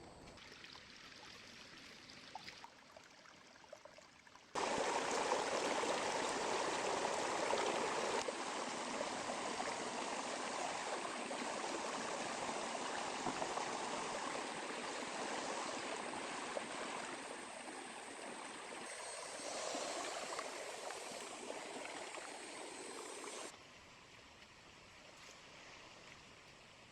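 Small river flowing, a steady rush of running water. It comes in suddenly about four seconds in and cuts off suddenly near the end, leaving only a faint hiss of water on either side.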